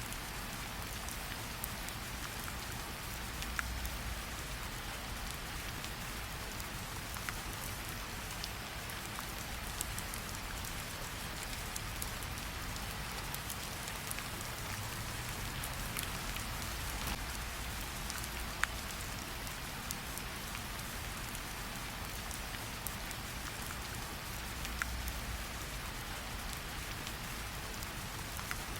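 Steady rain falling, mixed with scattered sharp pops and crackles from a campfire. A single louder pop comes a little past the middle.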